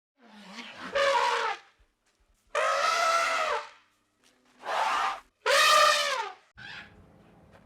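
An animal calling: a series of five loud, drawn-out cries with a clear pitch, each under a second long and about a second apart, the last one fainter.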